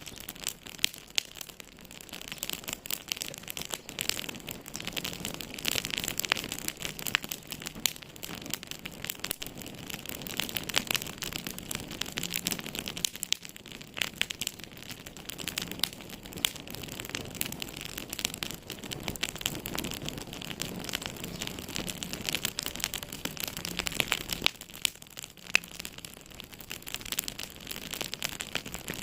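Wood fire crackling in a fireplace: a dense stream of irregular pops and snaps over a soft steady hiss.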